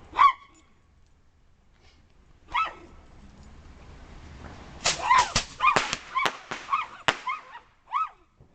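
Poodle barking excitedly in short, high barks, a few spaced apart and then a quick run of them. From about three seconds in, a firework hisses, with about six sharp cracks, and the hiss stops suddenly near the end.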